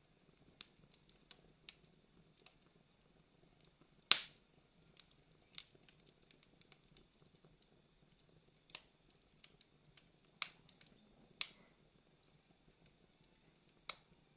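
Campfire crackling: sparse, sharp pops and snaps of burning wood, the loudest about four seconds in, over a faint low background noise.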